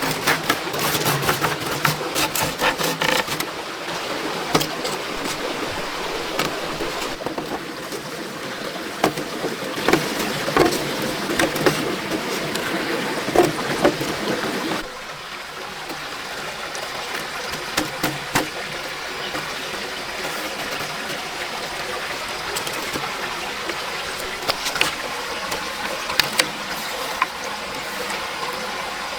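Steady heavy rain, with scattered sharp knocks and clicks through it. The rain thins in its lower tones about halfway through.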